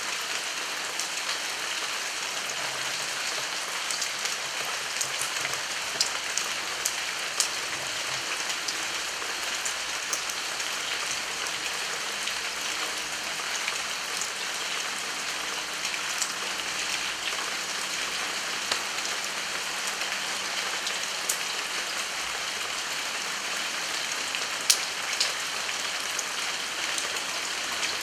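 Steady heavy rain falling, an even hiss with scattered sharp, louder drops striking close by, one especially loud one near the end.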